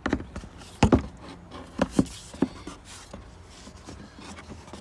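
Plastic air-filter housing part being set back into place on the engine: a few sharp knocks and clicks, the loudest a pair about a second in and another pair about two seconds in.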